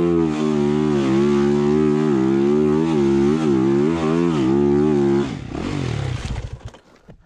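Dirt bike engine held at high revs, its pitch dipping and rising again and again with the throttle. About five seconds in, the revs fall away and the engine sound dies out.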